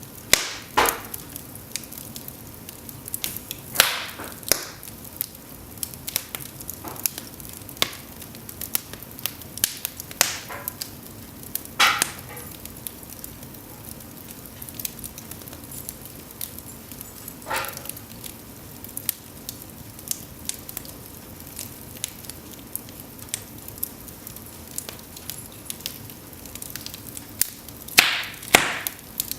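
Cedar logs burning in an open fireplace: a steady low hiss of flame with frequent small crackles and a few loud sharp pops, the loudest a pair near the end.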